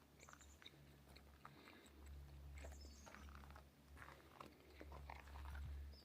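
Near silence: a faint low rumble that swells and fades, with scattered soft crackles and clicks.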